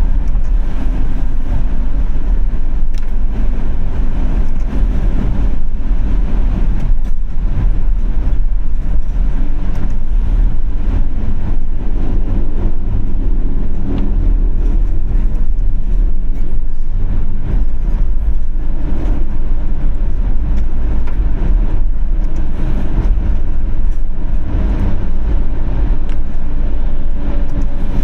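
Car driving on wet city streets: a steady, deep rumble of engine and tyres that does not let up.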